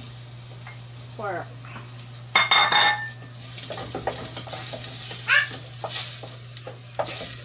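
Diced pork frying with garlic and onion in a stainless steel pot, sizzling while a wooden spatula stirs and scrapes it. A brief loud, ringing burst comes about two and a half seconds in.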